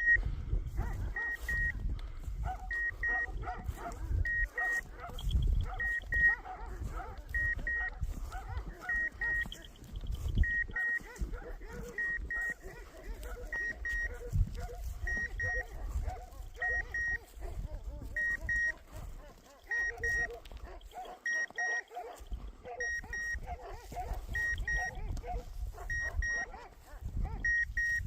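A hunting dog's beeper collar sounding short high double beeps at an even pace, about one pair every second and a half, with dogs barking in the background.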